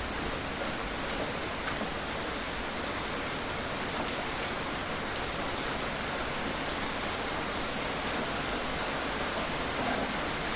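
Steady gentle rain falling on surfaces, with a few faint individual drop taps, and no thunder.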